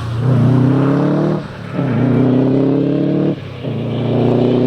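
Four-wheel-drive rally car engine accelerating hard through the gears: the engine note climbs steadily, with two brief dips for upshifts about a second and a half and three and a half seconds in, each followed by a lower note that rises again.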